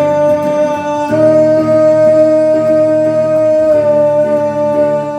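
Live band music with no lyrics: a held high note over sustained chords, the chord changing about a second in and again near four seconds.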